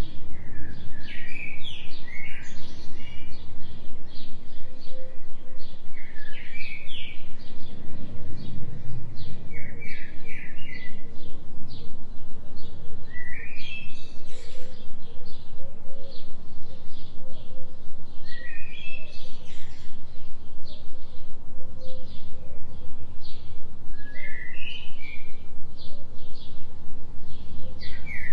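Songbirds chirping in short rising phrases every few seconds over a steady low hum, with a faint held tone and a rapid, even pulsing in loudness: forest birdsong mixed with a 3 Hz delta binaural beat.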